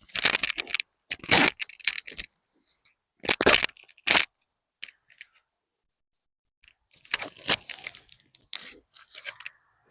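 Sharp clicks and knocks of beehive frames and equipment being handled during a hive inspection, in scattered clusters with short pauses between.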